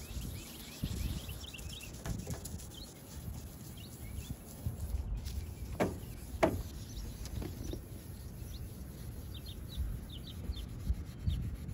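Small birds chirping faintly in short clusters in the background, over low, uneven rubbing and handling noise. Two sharp clicks come about six seconds in.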